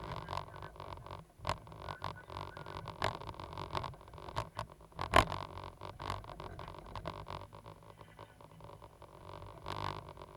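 Caterpillar 320 GC excavator's diesel engine running with a steady drone, with scattered clicks and knocks from the machine at work and one sharp knock about five seconds in.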